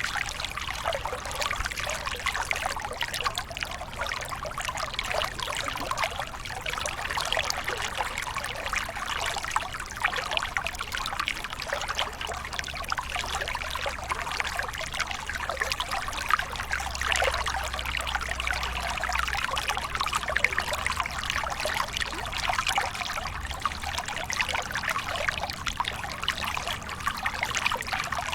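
Waterfall: water splashing and trickling steadily, mostly a bright splashing with little deep rumble.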